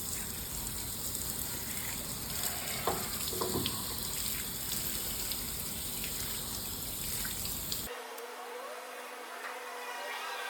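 Water jet spraying and rinsing down a car body, a steady hiss of spray that cuts off abruptly about eight seconds in, leaving a quieter background.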